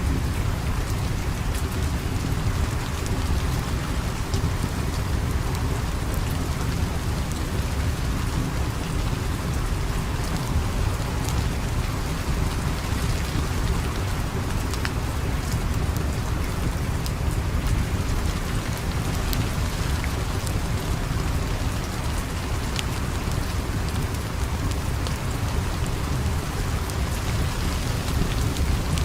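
Steady heavy rain, with a deep continuous rumble underneath and scattered sharp clicks throughout.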